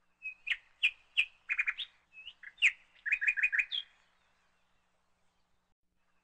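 Bird chirping: a string of short, sharp chirps followed by quick trills of repeated notes, stopping about four seconds in.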